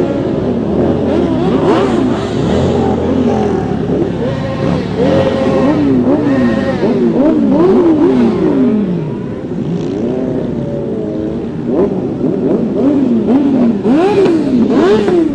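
A group of motorcycles pulling away and accelerating, several engines overlapping. Each engine rises in pitch, drops at a gear change, then climbs again, with strong runs of shifts about halfway through and near the end.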